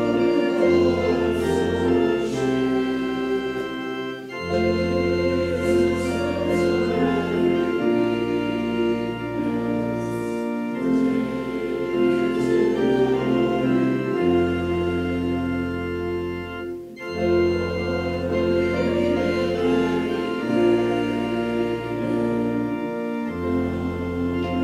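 Organ playing slow, sustained chords, the bass note changing every two to three seconds.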